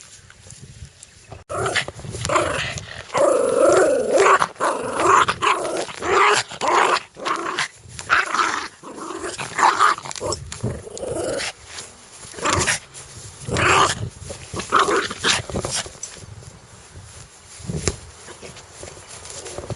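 Dog growling in repeated bursts, starting about a second and a half in.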